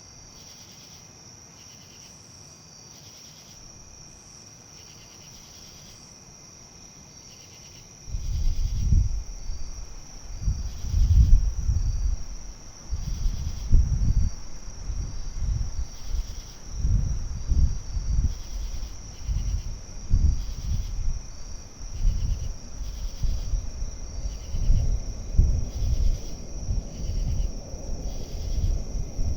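Crickets chirping in a steady, evenly pulsing trill. About eight seconds in, gusts of wind start rumbling loudly on the microphone, swelling and dropping every second or two.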